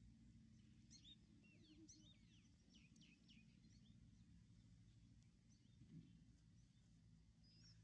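Near silence with faint bird chirps: a quick run of short, high, downward-sweeping chirps in the first three seconds or so and another one near the end, over a faint steady low hum.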